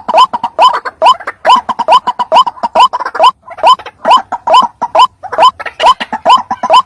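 White-breasted waterhen (ruak-ruak) giving its repeated croaking "kruak" call, a loud, steady string of short notes each rising at the end, about two to three a second.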